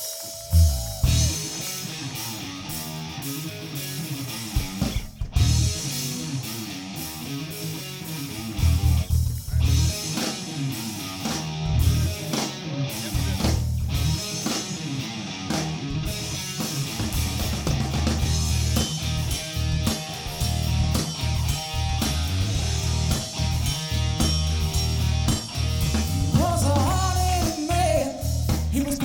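A live rock band playing: electric guitars, bass guitar and a drum kit start together about half a second in, and a voice that sings or a lead guitar line comes in near the end.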